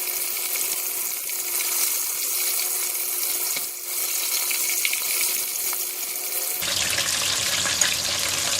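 Tempura-battered chicken wings deep-frying in very hot oil: a steady sizzling hiss. A low hum joins about two-thirds of the way through.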